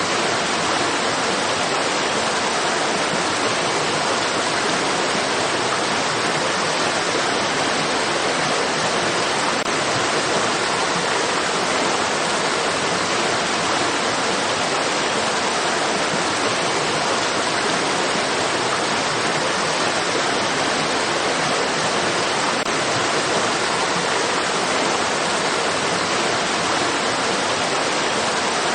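A stream's running water, a steady even hiss that holds the same level throughout, with no separate splashes or drips standing out.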